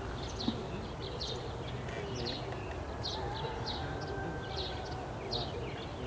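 Wild birds calling: a steady series of short, high chirps, about two a second, over fainter, lower wavering calls.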